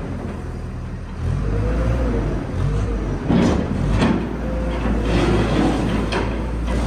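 A machine's engine running steadily with a low rumble, with a few sharp metallic knocks about halfway through and again near the end.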